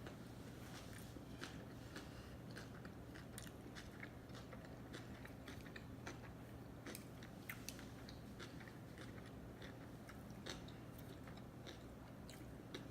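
A person chewing sushi close to the microphone: wet, sticky mouth clicks and smacks that come irregularly, several a second.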